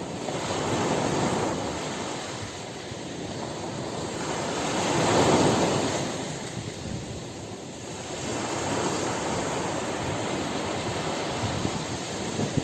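Ocean surf breaking and washing up the shore in slow swells, with the biggest wave about five seconds in.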